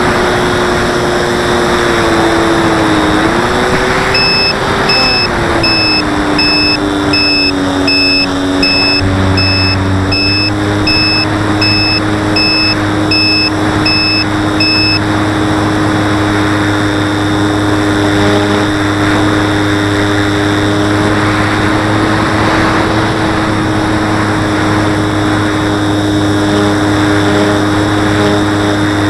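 RC model aeroplane's motor and propeller running in flight, a steady whine that dips in pitch a few seconds in and then settles, over rushing air. About nine seconds in a low buzz joins it and keeps on: the vibration the owner takes for the rubber-band-held wing lifting off the fuselage in climbs and hard banks.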